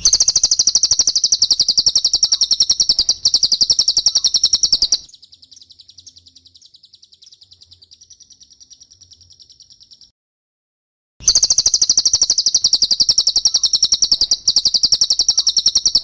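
Cililin songbird singing a rapid, high-pitched trill of fast repeated notes. It drops much quieter about five seconds in, breaks off into a pause of about a second, then resumes loudly.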